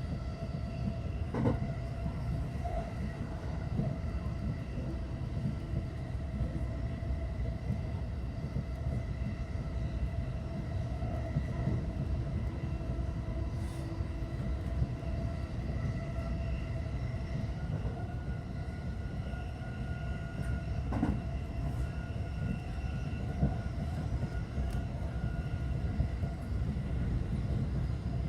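JR West 225 series electric train running between stations, heard from inside the front car: a steady low rumble of wheels on rail with a few faint steady whining tones. There are a couple of sharp knocks from the track, one early and one about two-thirds of the way through.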